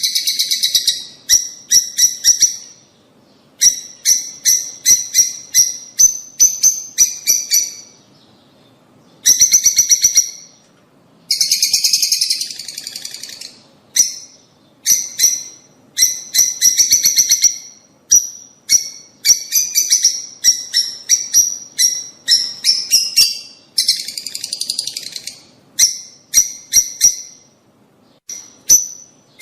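Lovebirds chattering: rapid runs of shrill, sharp chirps in bursts of a second or two, with short pauses between.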